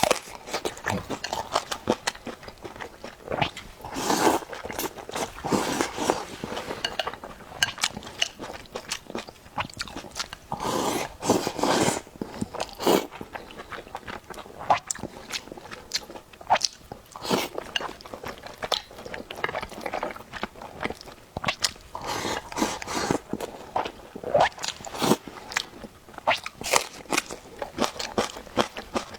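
Close-miked eating: chewing and biting with wet mouth and lip-smacking clicks, in irregular bursts with short pauses between mouthfuls.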